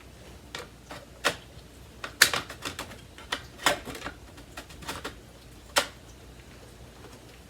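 Irregular sharp plastic clicks and knocks, about a dozen over several seconds, from the parts of a used Samsung CycloneForce upright vacuum being handled and fitted, such as its dust cup and filter.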